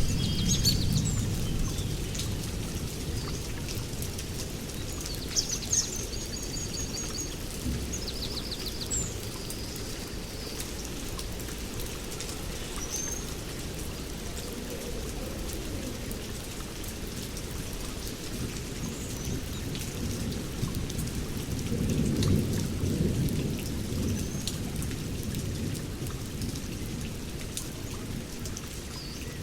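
Steady rain falling, with low rolling rumbles of thunder that swell near the start and again about two-thirds of the way through. A few short, high bird chirps come through the rain in the first half.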